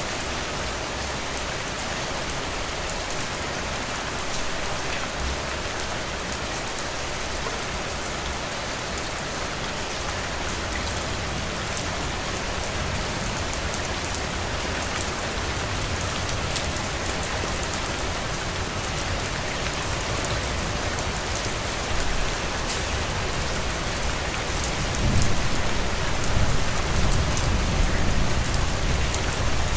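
Heavy rain falling steadily: a dense hiss with a fine patter of drops. A low rumble swells in over the last few seconds.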